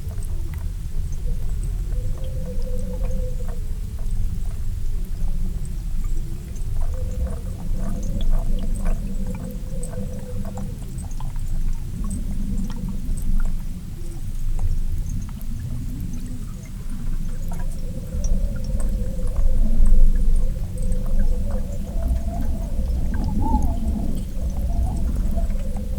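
Underwater lake soundscape picked up by a hydrophone: a loud low rumble with a wavering hum that drifts up and down in pitch, broken by scattered small clicks and crackles. The recordist has not identified the source of the loud low-frequency sound.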